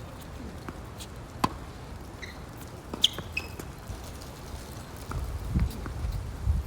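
Tennis ball struck and bouncing on a court: a few sharp knocks about a second and a half and three seconds in, with short squeaks between them. Wind gusts rumble on the microphone, growing stronger near the end.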